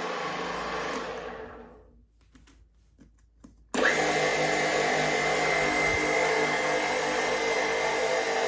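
Huvema HU 25 TK geared-head drill press running, then dying away about a second in, with a few faint clicks in the lull. It is running again from about four seconds in, with a steady high gear whine over the motor and gearbox noise.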